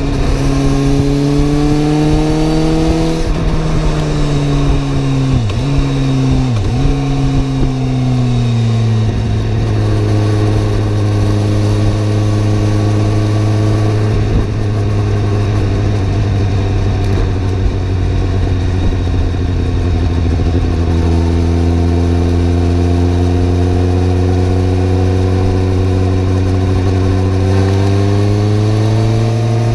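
Suzuki GSR750's inline-four engine running under way: it rises in pitch, then falls away through two brief dips in pitch and settles to a steady drone, and near the end it pulls up in pitch again.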